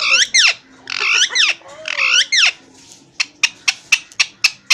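A parrot squawking in three short, sweeping calls, followed about three seconds in by a rapid run of sharp clicks, about five a second.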